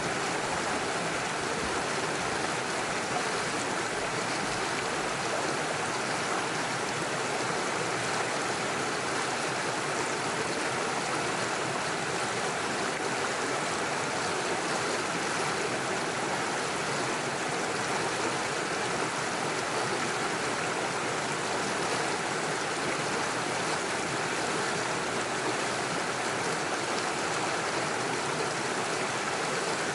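Small mountain stream rushing steadily over stones and small waterfalls, a constant even water noise.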